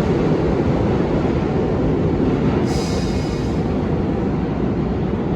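New York City subway train running, a steady loud rumble of wheels on rail. About three seconds in there is a brief high-pitched sound lasting under a second.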